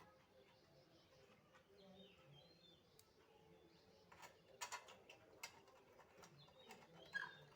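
Near silence: faint room tone with a few soft clicks and a brief faint chirp near the end.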